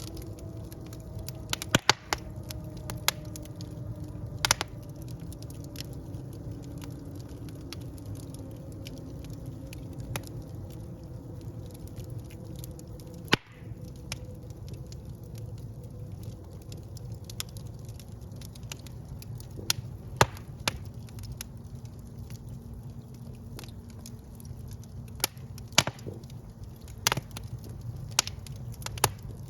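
Wood fire burning in a fireplace: a steady low rumble of flames with irregular sharp crackles and pops of burning logs, and faint wavering whistling tones for the first several seconds.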